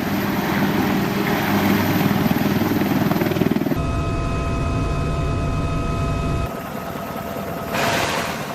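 AH-1Z Viper attack helicopter's turboshaft engines and rotors running, heard in several short shots cut together, so the sound changes abruptly a few times. One shot carries a steady high turbine whine, and a brief rush of noise comes near the end.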